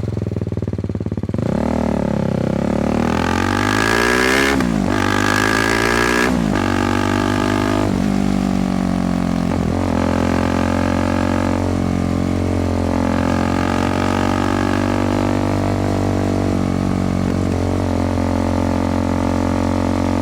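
Motorcycle engine pulling away from low revs, climbing and dropping sharply several times in the first ten seconds as it shifts up through the gears, then running at a steady cruising speed.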